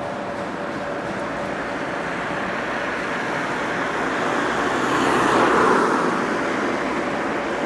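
Road traffic noise, with a vehicle passing about five to six seconds in.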